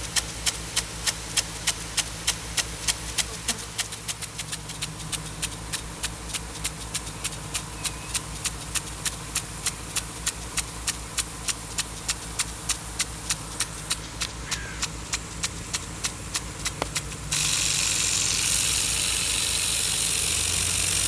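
Rain gun sprinkler's swinging arm knocking about two to three times a second over a steady engine hum. About seventeen seconds in, the knocking gives way to a loud steady hiss of water spray.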